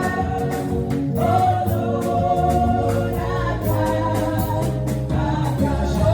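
Gospel worship music: a choir singing held notes over instrumental backing with a steady beat.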